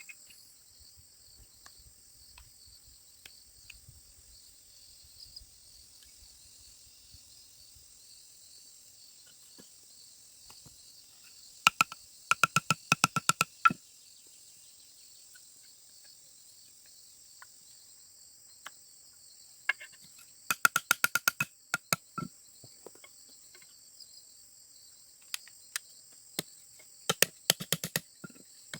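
Steady high insect chorus, with three runs of quick, sharp knocks from striking bamboo during bamboo furniture work. The knocks are the loudest sound, each run several strikes in a row.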